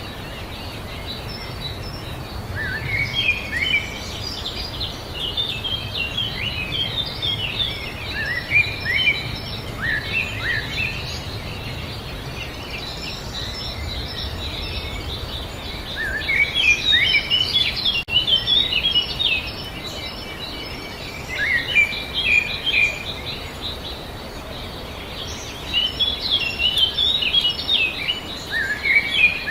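Birds singing in spells of quick, falling chirps, with pauses of a few seconds between spells, over a steady low background rumble.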